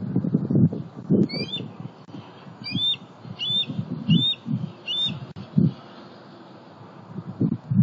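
A bird calling in a series of five short, high chirps about two-thirds of a second apart, under uneven low wind rumble on the microphone.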